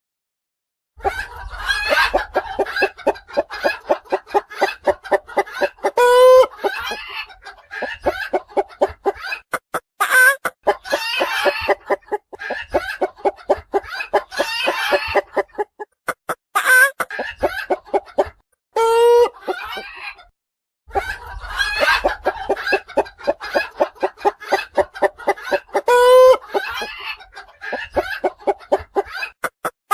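Hens cackling: quick runs of clucks, each now and then rising into a loud drawn-out squawk, about five times over, with a few short breaks.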